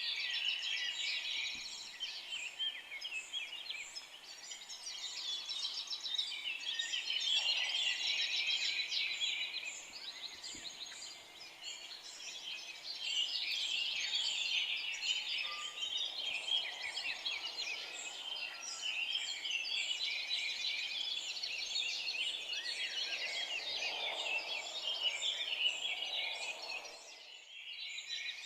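Dense chorus of many songbirds singing at once, overlapping high chirps and trills throughout. It briefly drops away for about a second near the end.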